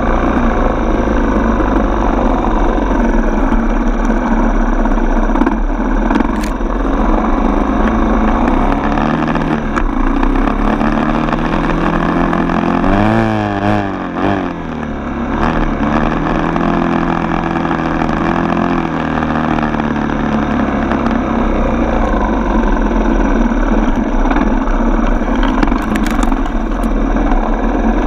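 Dirt bike single-cylinder four-stroke engine running under way on a trail. The revs drop and climb again about halfway through, with the engine briefly quieter, then it settles back to a steady pull.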